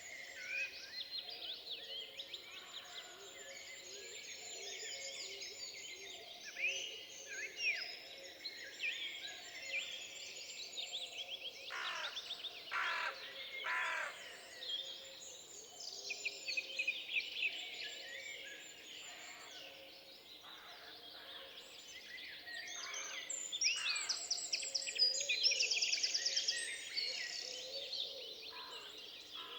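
Woodland birdsong: several songbirds singing at once, with overlapping chirps, whistles and trills. A louder rapid trill comes near the end.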